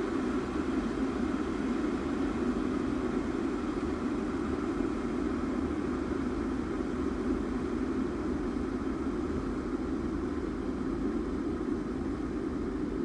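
Kettle boiling water: a steady, low rushing noise of rolling bubbles, without any whistle.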